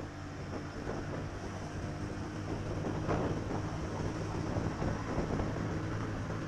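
Small single-cylinder four-stroke motorcycle engine running at a steady speed, with wind rush.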